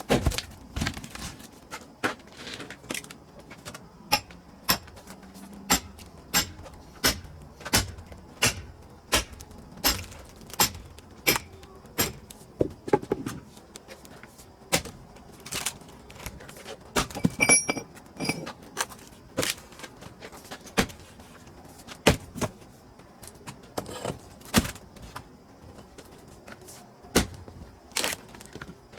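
A steady run of sharp wooden knocks and thunks from pine firewood being worked, coming about every three-quarters of a second. One impact about two-thirds of the way through rings briefly.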